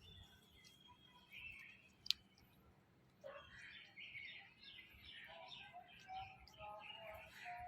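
African grey parrot making soft chirps and whistles, with a busy run of short chirping notes in the second half, and one sharp click about two seconds in.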